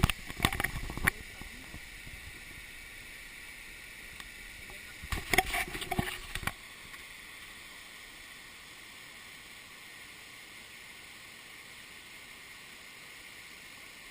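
Waterfall rushing in a steady hiss, broken by loud rumbling knocks during the first second and again around five to six seconds in.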